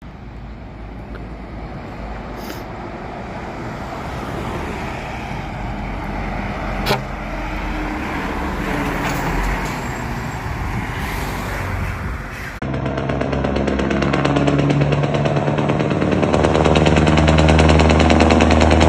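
Scania V8 truck engines in two spliced clips. In the first, an engine grows louder behind a noisy rush, with a sharp click about seven seconds in. After an abrupt cut about two-thirds of the way through, a deep, even V8 engine note grows steadily louder.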